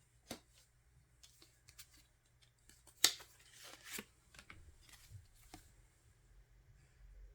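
Hands handling a music album's packaging and contents: scattered light clicks and paper and plastic rustling, with one sharp, louder click about three seconds in.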